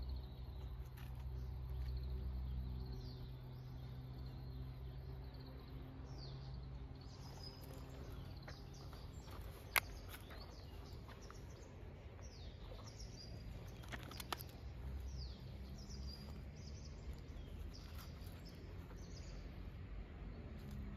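Birds chirping outdoors, many short falling calls from about six seconds in, over a steady low hum. A single sharp click about ten seconds in and a smaller one a few seconds later.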